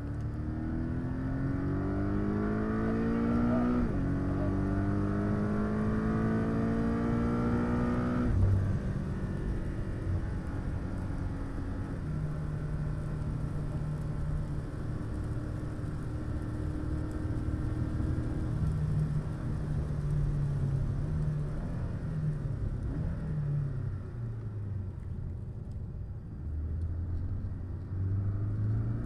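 Porsche 718 Cayman S's turbocharged flat-four heard from inside the cabin, revving up under hard acceleration with an upshift about four seconds in, then pulling again until the throttle is lifted about eight seconds in. It then runs at steady part throttle, slows for a corner, and accelerates again near the end.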